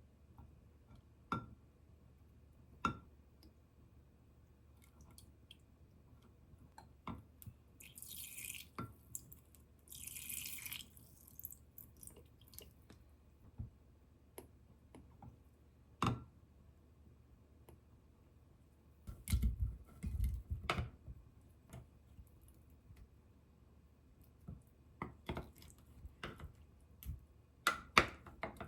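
Scattered clicks and knocks of kitchenware being handled, with two short hisses about eight and ten seconds in and a cluster of heavier thumps about two-thirds of the way through.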